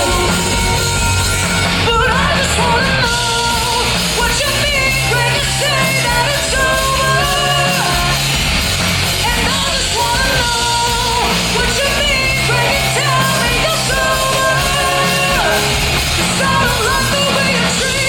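Live heavy rock band playing, with a lead vocal sung and yelled over loud distorted guitars, bass and drums.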